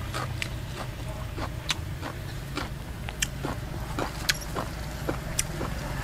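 Close-up chewing of raw fresh vegetables: irregular crisp mouth clicks and crunches, one or two a second, over a steady low hum.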